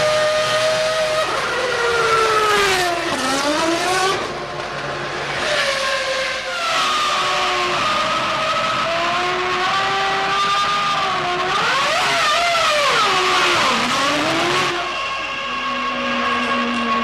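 2001 Formula One car's 3.0-litre V10 engine at high revs. Its pitch falls in steps as it downshifts under braking, then climbs again as it accelerates through the gears, several times over. Near the end it settles to a steadier, lower note.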